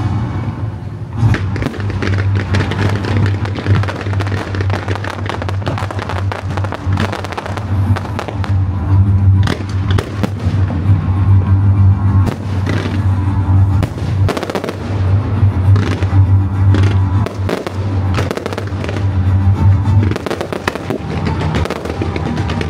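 Firecrackers and fireworks going off in rapid, irregular bangs, with loud music with a heavy bass playing throughout.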